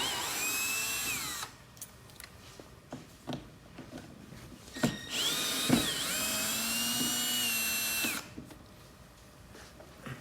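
Power drill-driver running in two short bursts, about a second and a half and then about three seconds, as it backs out Phillips screws. The motor whine shifts in pitch as the screws come loose, with light clicks and knocks between the runs.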